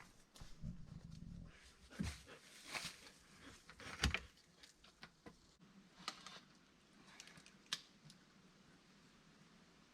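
Irregular light knocks and clicks, with one sharper knock about four seconds in, fading to a faint steady background near the end.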